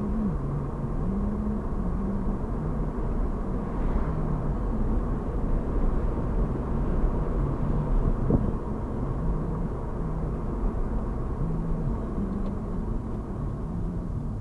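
Car driving slowly: steady engine and road rumble, with an engine tone that steps up and down in pitch.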